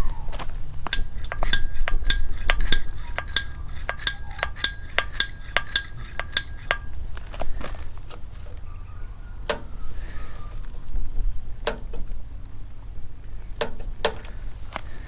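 Metal parts being handled: a few seconds of rapid metallic clicks with a ringing tone, then scattered metal clinks and knocks.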